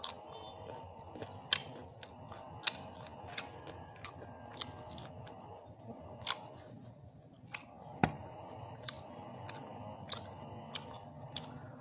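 A person chewing mouthfuls of lechon (roast pig) eaten by hand, with irregular sharp mouth clicks and smacks; one click about eight seconds in is louder than the rest.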